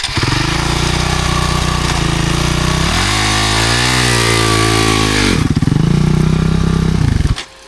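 Enduro motorcycle engine running loud and close. It revs up and back down once in the middle, then cuts off suddenly near the end.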